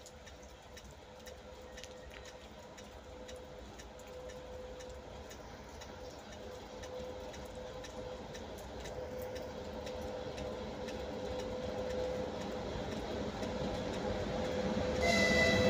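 A VL80s two-section electric locomotive hauling a freight train approaches, its rumble and a steady hum growing gradually louder, with faint regular ticks throughout. A high tone joins near the end as it draws close.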